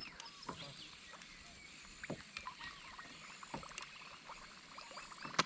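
Faint sounds of a kayak on the water: soft water noise against the hull with a few scattered small knocks and ticks.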